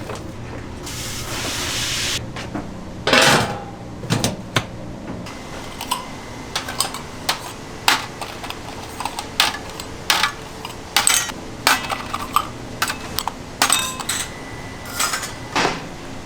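Kitchen clatter: a short hiss about a second in, then a long run of separate clinks and knocks from metal pans, trays and utensils being handled.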